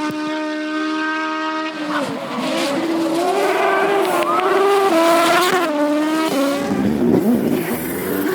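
Rally car engine at high revs. It holds steady, cuts off sharply about two seconds in, then revs rise and fall through quick gear changes. Near the end the revs drop and waver with rougher noise.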